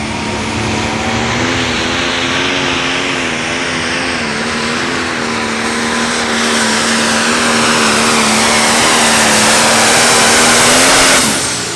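Light Pro Stock pulling tractor's turbocharged diesel engine running at full throttle under load during a pull. Its note holds at a high steady pitch with a wavering edge and grows louder, then the throttle is cut about eleven seconds in and the pitch falls away.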